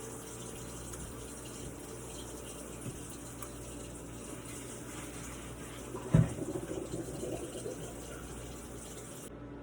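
Kitchen tap running cold water over just-boiled potatoes in the sink, a steady rush of water that stops their cooking. A single clunk about six seconds in.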